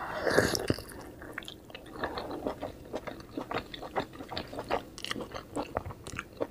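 Close-miked bite into a juicy steamed vegetable momo, loudest in the first second, then chewing with many small mouth clicks and smacks.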